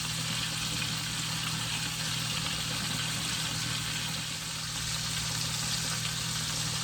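Steady sizzling hiss of chicken thighs frying in a pan on the stovetop, over a low, even hum.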